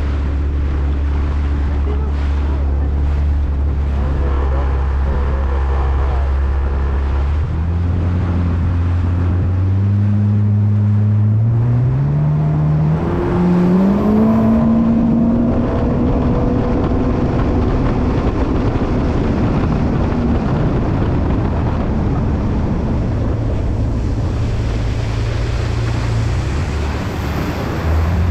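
Jet ski engine running low, then accelerating from about a quarter of the way in, its pitch climbing in steps for several seconds. It then runs at speed with wind and water rushing, and drops back to a lower tone near the end.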